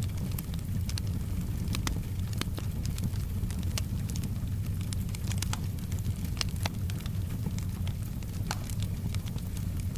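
Wood fire in a fireplace crackling, with many irregular sharp pops and snaps over a steady low rumble, and soft rain in the background.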